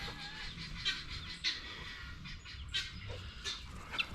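Farmyard poultry calling faintly, a few short scattered calls, over a low steady rumble.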